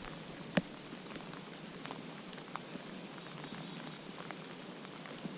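Steady rain falling, a soft even hiss with many small drop ticks scattered through it and one sharper tick about half a second in.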